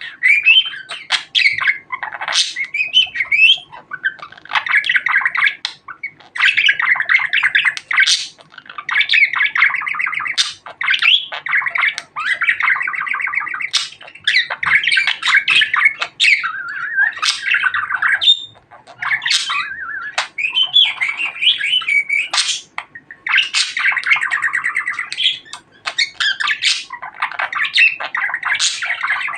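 Budgerigar chattering and warbling almost without a break: fast, buzzy twitters mixed with sharp clicks and squawks, pausing briefly now and then.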